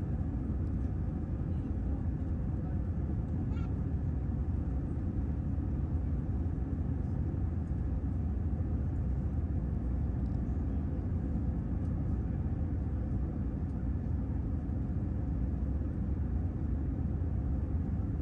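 Steady low rumble of an Airbus A321neo in flight, heard as engine and airflow noise inside the cabin.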